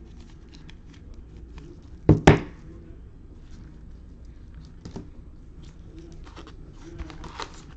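Trading cards and packs being handled on a table, with light rustling and clicks. Two sharp knocks in quick succession come about two seconds in, and softer knocks follow later.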